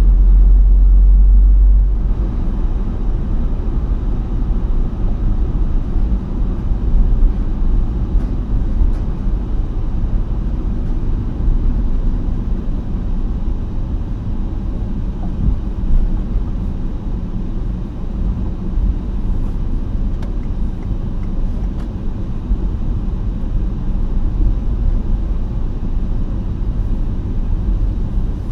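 Car cabin road noise: a steady low rumble of the tyres and car driving over a snow-covered road, much louder for the first two seconds.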